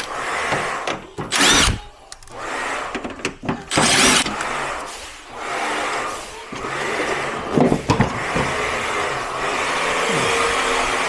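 Cordless power drill-driver running in a series of bursts: two short, sharp spins of rising and falling pitch, then longer steady runs of several seconds each.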